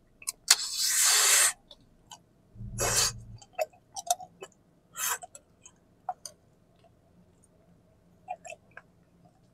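Biting into and eating a wax candy with a liquid filling: a second-long slurp of the filling near the start, then scattered small clicks and crackles of the wax shell breaking and being chewed.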